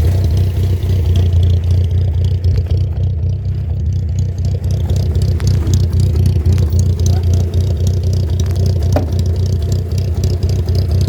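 A vehicle engine running steadily, a loud, even low drone.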